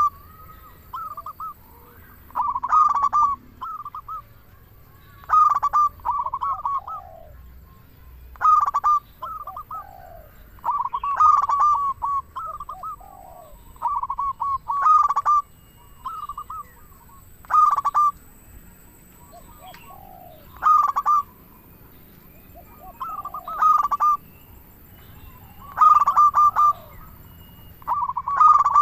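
Zebra dove (perkutut) in full song: a short phrase of rapid, staccato coos, repeated about every two to three seconds.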